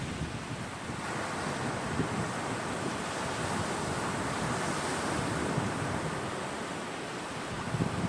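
Sea waves washing onto the shore, one wave swelling and breaking in the middle, with wind rumbling on the microphone.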